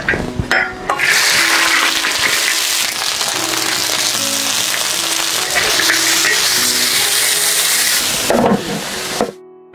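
Chopped chicken and bamboo worms frying in hot oil in a large wok: a loud, steady sizzle that starts about a second in and cuts off suddenly near the end. Background music plays underneath.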